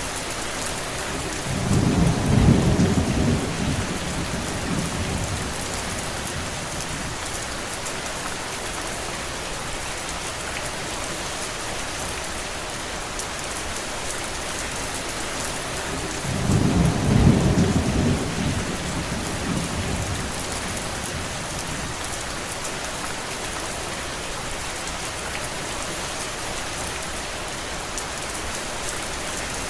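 Steady rain falling, with two low rolls of thunder, each a few seconds long: one a couple of seconds in and one a little past the middle.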